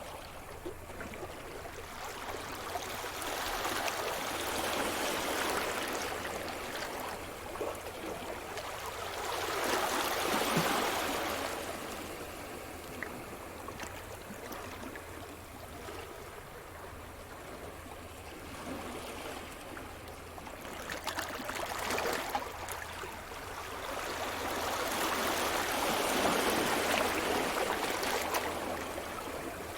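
Sea surf: waves breaking and washing up the shore, the rushing noise swelling and fading several times, loudest about ten seconds in and again near the end.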